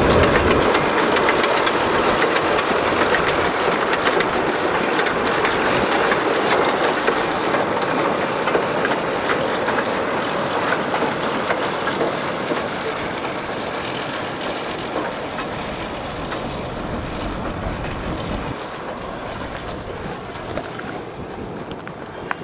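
Narrow gauge salt railway train rolling along the track, wagons rattling with many small clicks, the sound slowly fading as it draws away.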